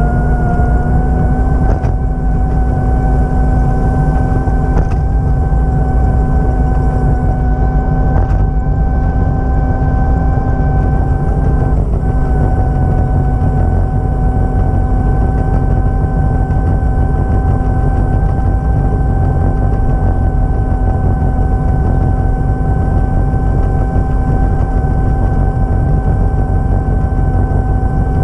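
A vehicle engine running steadily with a deep rumble and a held whine. Its pitch rises and levels off within the first couple of seconds, then stays even.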